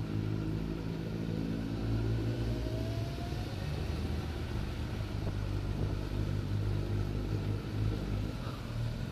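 Motorcycle engine running steadily at low revs while the bike rolls at walking pace, with a faint rising tone about three seconds in.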